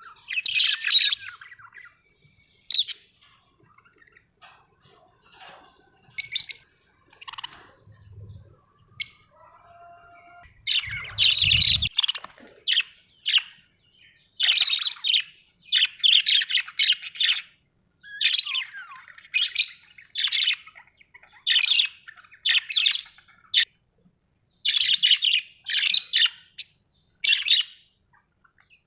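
Pet parrots calling with short, harsh chirps and squawks. The calls are scattered at first, then come about once a second through the second half. A couple of low thumps fall in the middle.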